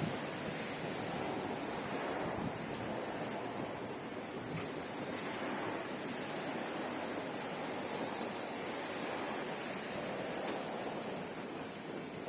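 Steady rain falling at night, an even hiss with a few faint drip-like clicks.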